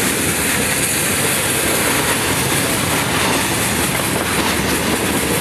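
Freight train of gondola cars loaded with steel pipes rolling past close by: the steady noise of steel wheels running on the rails.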